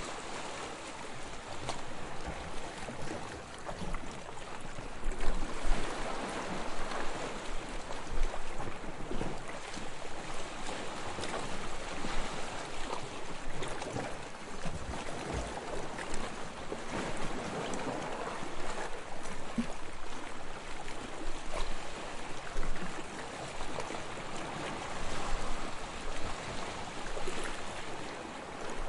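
Small, soft waves lapping and washing onto a sandy shore, rising and falling every few seconds.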